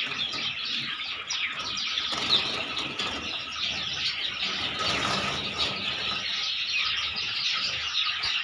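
A flock of Java sparrows chirping together in a dense, continuous chatter of short, high calls.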